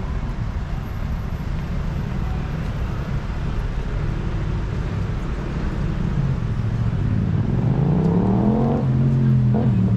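City road traffic: a steady rumble of engines and tyres, with one vehicle's engine rising in pitch as it accelerates past, loudest near the end.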